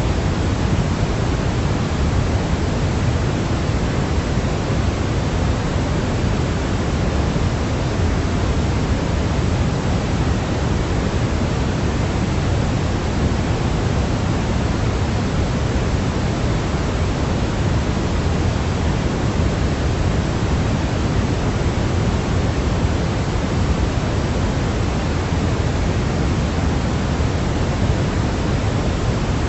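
Steady, unbroken noise for sleep, weighted toward the low end like pink noise: an even hiss with a deeper rumble beneath, unchanging throughout.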